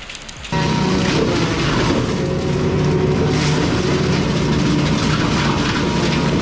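Heavy machine engine running steadily at a constant pitch, cutting in abruptly about half a second in.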